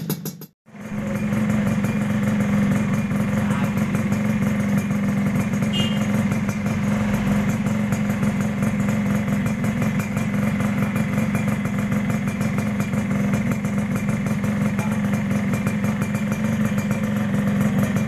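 Two-stroke underbone motorcycle with a racing exhaust running steadily at idle. It cuts out briefly just after the start, then holds one even note with no revving.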